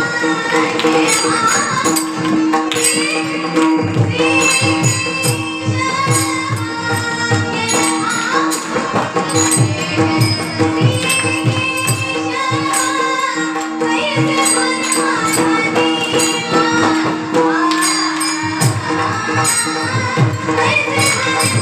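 Women singing a Marathi devotional song with ornamented, gliding sung lines, backed by quick pakhawaj drum strokes, bright cymbal-like strikes and a steady held drone note.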